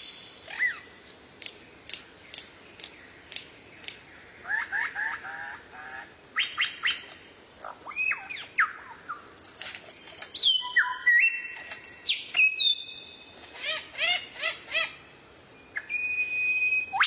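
Songbird singing a varied song: sharp falling and rising whistled sweeps, a few held clear whistles, and quick runs of repeated notes, coming in bursts with short pauses between.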